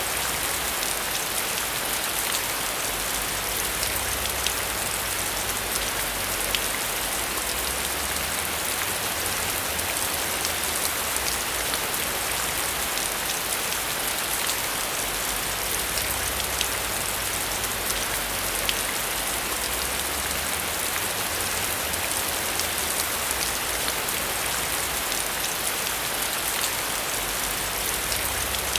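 Heavy rain falling steadily on a metal roof, a constant hiss dense with small drop ticks.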